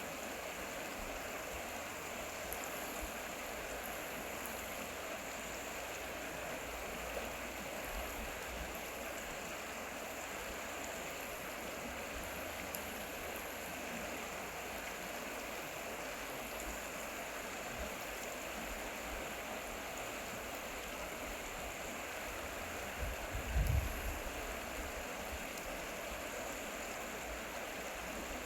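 Stream water flowing steadily, with a brief low rumble about three-quarters of the way through.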